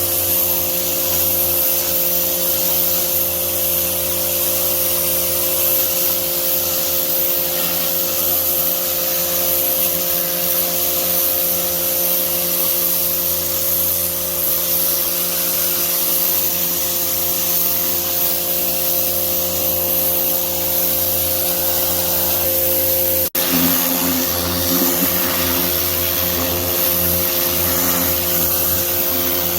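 Pressure washer running steadily: a motor hum under the hiss of the water spray. The sound breaks off for an instant about two-thirds of the way in, then goes on.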